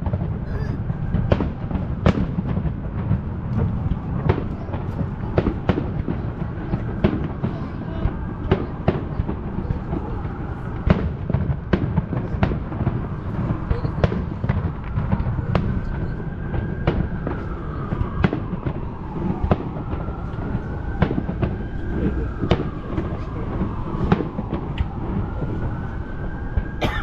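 Fireworks display: a dense, continuous run of bangs and crackles over a heavy low rumble, with whistles gliding up and down through the second half.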